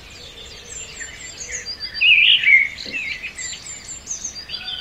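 Small birds chirping and twittering over a low background hiss, loudest about two seconds in.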